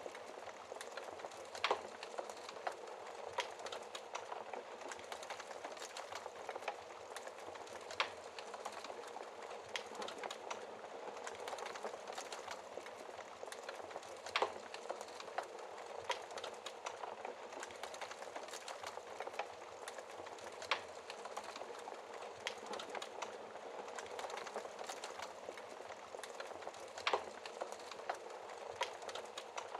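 Fire crackling in a fireplace: a steady soft hiss with scattered sharp pops every few seconds, a few of them louder snaps.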